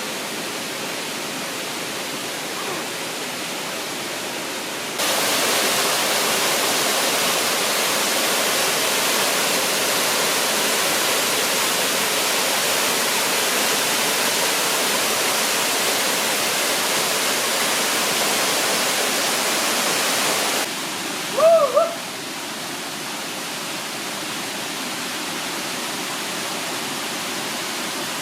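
Rushing water of a mountain valley stream, a steady hiss that steps up louder about five seconds in and drops back about twenty seconds in. Just after the drop, two short rising-and-falling high calls are heard.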